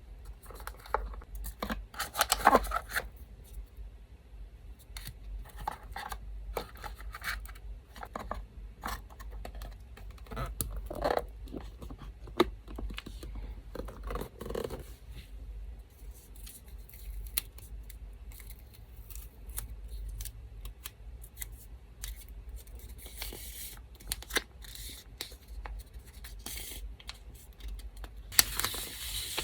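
Scissors snipping paper in short, quick cuts, with paper handling and rustling between them and a longer rustle near the end. A low, steady electric fan hum runs underneath.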